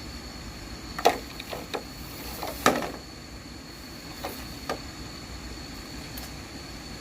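Several irregular sharp knocks, like wood being struck or handled, two of them much louder, over a steady high-pitched whine and a low background rumble.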